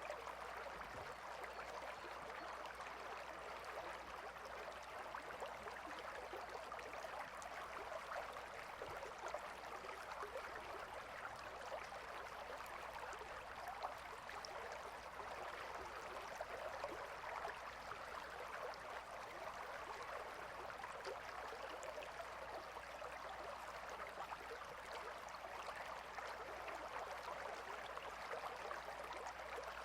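Gentle river flowing steadily: a soft, even rush of water.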